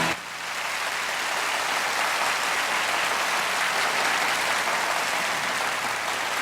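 Live concert audience applauding steadily after a song ends; the band's held final chord cuts off just as the applause takes over.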